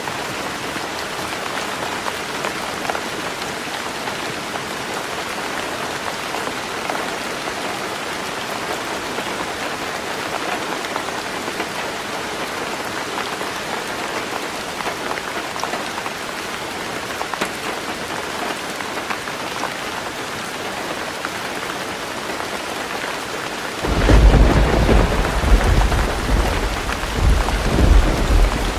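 Heavy rain falling steadily on a roof, an even hiss with scattered drop ticks. About 24 seconds in, a loud low rumble of thunder breaks in and rolls on in waves.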